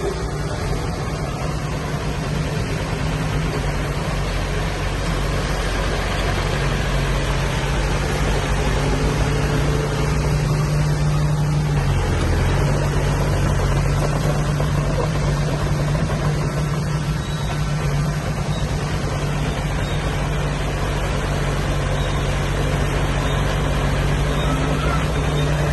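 Heavy diesel earthmoving machinery running steadily under load, its engine note dipping briefly about halfway through and then picking up again.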